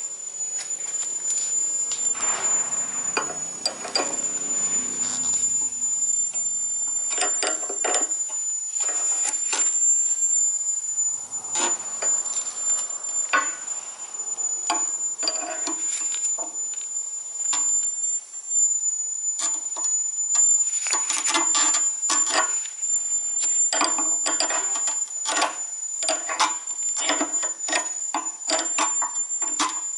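Workshop work on a car's suspension: a run of irregular metal clinks and knocks from tools and parts, coming thicker in the second half. A thin, steady high-pitched whine runs underneath.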